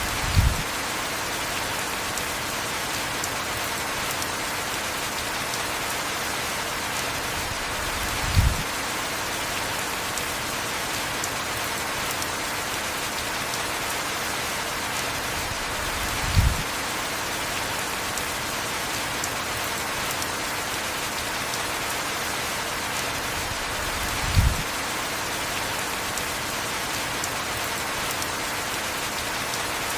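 Steady heavy rain, an even hiss, with a short low thump four times, about every eight seconds.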